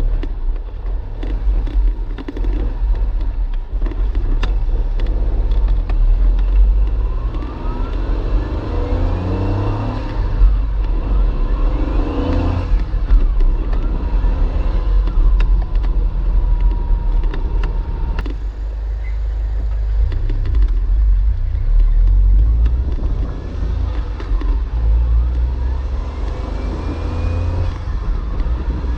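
Honda S660's small turbocharged three-cylinder engine driving on the road under a heavy low rumble, its pitch rising several times as it accelerates through the gears.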